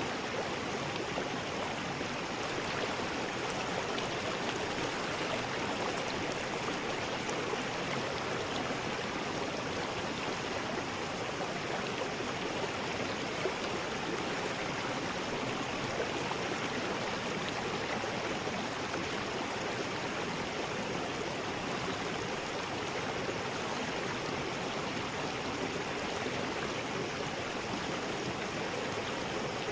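River rapids: water rushing steadily over rocks in a continuous, even roar.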